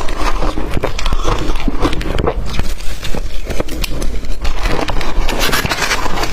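Blender-crushed ice being bitten and chewed close to the microphone: dense, crackling crunches that swell and fade several times.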